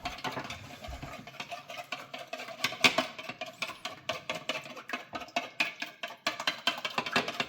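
Eggs being beaten in a bowl with a utensil: a fast, uneven run of clinking taps against the bowl.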